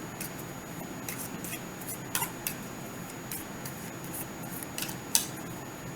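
Tarot cards being handled and shuffled: a scattering of light, irregular clicks and snaps.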